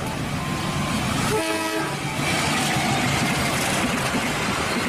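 Diesel-electric locomotive of Indonesian railways (KAI) passing with its passenger train: a continuous engine and wheel rumble, and one short horn blast about a second and a half in.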